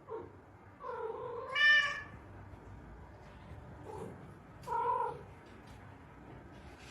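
A domestic cat meowing four times: a short meow, then a long drawn-out meow that rises into a loud, high yowl, then a faint meow and a last short one.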